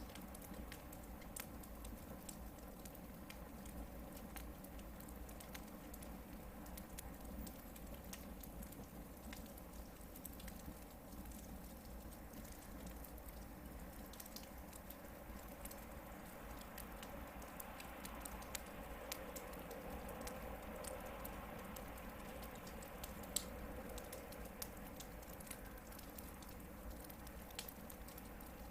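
Hardwood campfire burning, with a soft steady hiss and scattered faint crackles and pops from the logs. The hiss swells slightly for a few seconds past the middle, and one sharper pop stands out late on.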